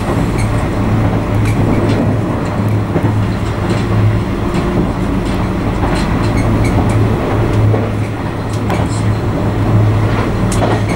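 Argo Anggrek passenger train running at speed, heard from inside the carriage: a steady low hum over continuous wheel-and-rail rumble, with occasional short clicks.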